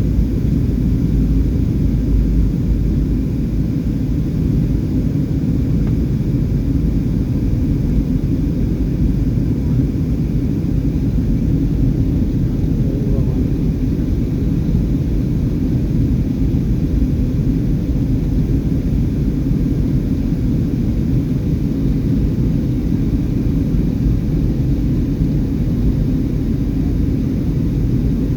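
Steady low rumble of an airliner in flight, heard from inside the passenger cabin.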